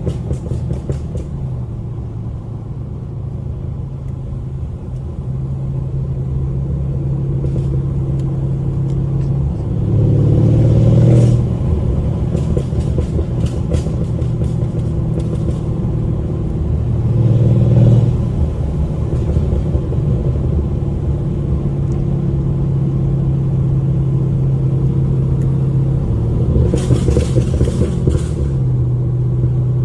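Mercedes CLS550's twin-turbo V8 with downpipes, cruising with a steady, low exhaust drone. It swells louder under throttle about ten seconds in, again about seventeen seconds in, and near the end.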